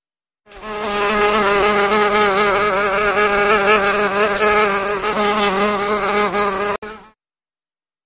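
Mosquito buzzing in flight: a steady, slightly wavering whine that starts about half a second in and cuts off about seven seconds in, with a brief break just before the end.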